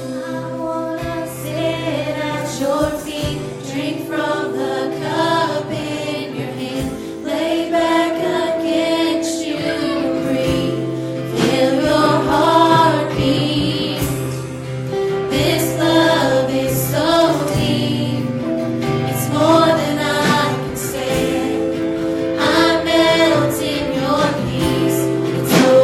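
Christian worship song: voices singing together over instrumental accompaniment.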